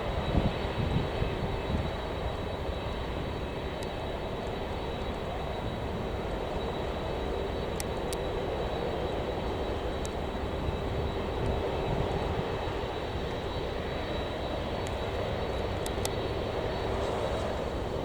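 Boeing 747-400 jet engines running steadily, a continuous rumble with a faint held whine.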